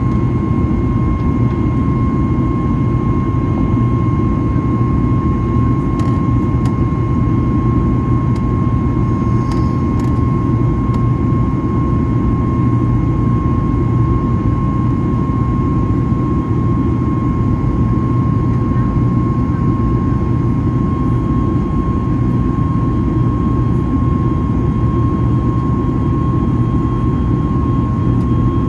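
Boeing 737 MAX 8 cabin noise heard from inside: the steady rumble of its CFM LEAP-1B jet engines and airflow, with a steady high whine over the top.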